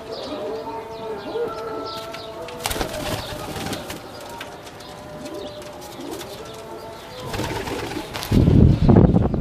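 Domestic pigeons cooing, low rolling calls again and again. Near the end comes a loud, noisy rustling burst lasting about a second.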